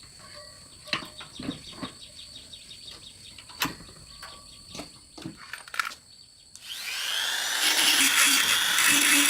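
Scattered light clicks and knocks of metal and tools being handled, then about two-thirds of the way in an electric power tool switches on, its pitch rising as the motor spins up, and runs loudly.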